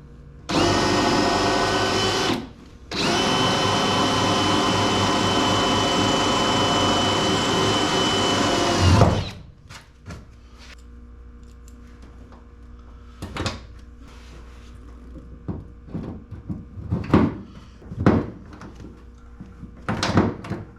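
Power drill with a 3/16-inch metal bit drilling into an aluminum boat rib: a short run of about two seconds, a brief pause, then a steady run of about six seconds with a constant whine that stops abruptly. Quiet clicks and knocks of tool handling follow.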